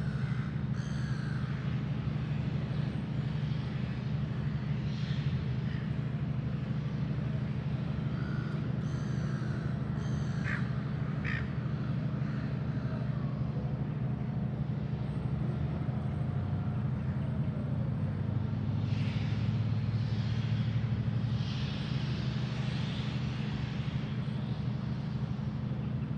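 A steady low mechanical hum runs throughout, with a few short bird calls over it, two sharp ones about ten seconds in.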